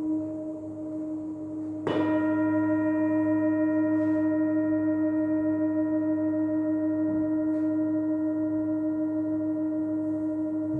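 Tibetan singing bowls ringing. One bowl is struck about two seconds in and rings on with a slow, wavering pulse over the tones already sounding.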